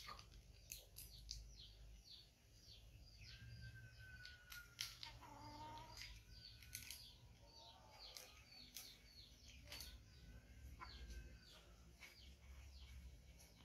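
Faint birds chirping: a quick run of short, high notes that each slide downward, with a lower drawn-out call falling in pitch a few seconds in. Light scattered clicks and rustles sound among them.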